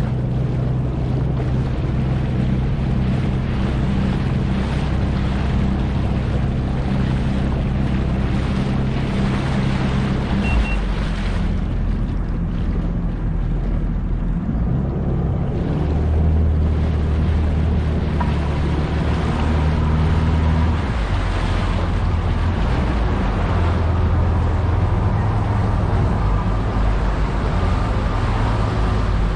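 Yamaha jet ski engine running under way, with wind rushing over the microphone. The engine note steps down about a third of the way in and changes pitch again a few times as the throttle varies.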